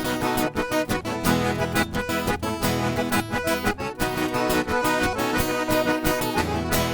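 Accordion playing an instrumental passage of a lively sertanejo/gaúcho-style song over a steady strummed rhythm.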